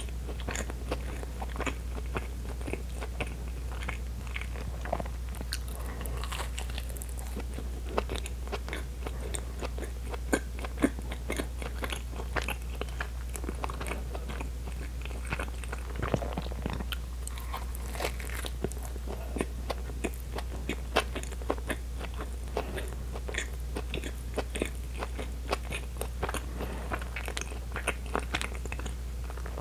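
Close-miked chewing of soft bread: wet mouth clicks and smacks, several a second and uneven, over a steady low hum.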